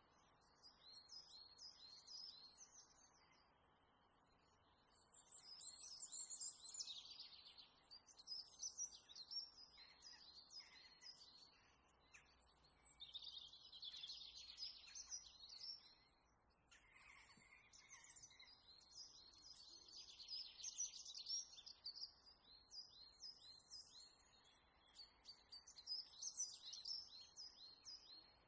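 Small birds chirping, faint, in repeated phrases of quick high notes every few seconds, over a low steady background hiss.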